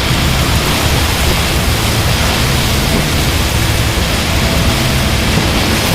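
Torrential rain and gusting wind of a severe thunderstorm line, heard as a steady, loud hiss.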